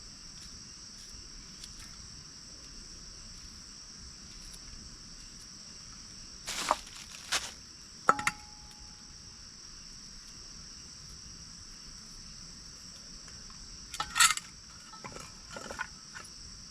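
Crickets chirping in a steady, continuous high trill. Over it come a few knocks and clatters of cookware being handled, one of them a metal knock with a short ring about eight seconds in, and a cluster of knocks near the end.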